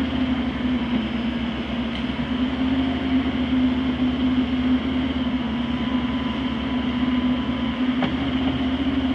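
Heavy equipment engine running steadily: a constant low drone with an even, rapid low pulsing that does not rise or fall.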